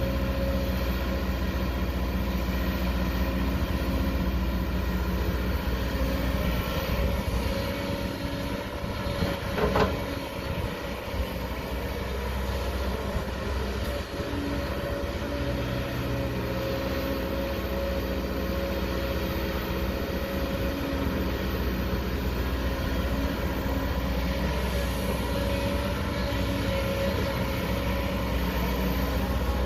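Heavy diesel construction machinery, an excavator working beside a dump truck, running steadily with a low drone and a steady whine. There is one sharp knock about ten seconds in.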